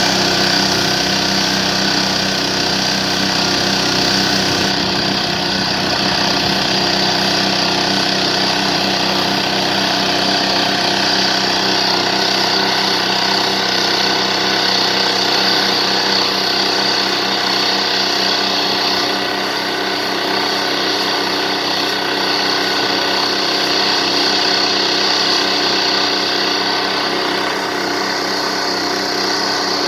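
Demon Tornado mini washing cart running steadily: a constant machine drone with a high whine on top, unchanging in loudness.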